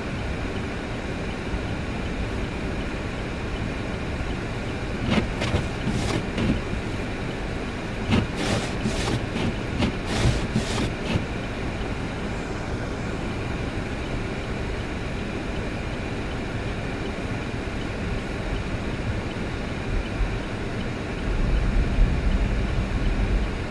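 Steady low rumble of a vehicle driving, heard from inside, with a few sharp knocks about five seconds in and a quicker run of them from about eight to eleven seconds. The low rumble grows louder near the end.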